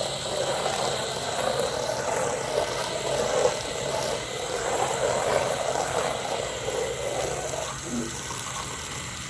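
Pressure washer spraying water against house siding: a steady hiss of spray over the hum of the machine. The spray stops about eight seconds in, and the hum carries on.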